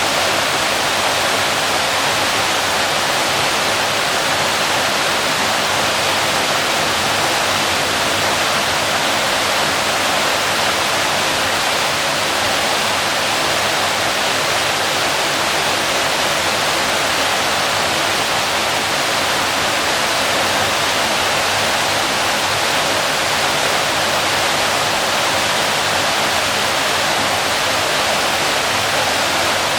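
Waterfall: water falling and splashing, a steady loud rushing that does not change.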